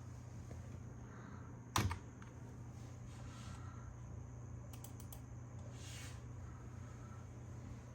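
A few sharp clicks, one loud one about two seconds in and a quick run of three or four around five seconds, over a steady low hum.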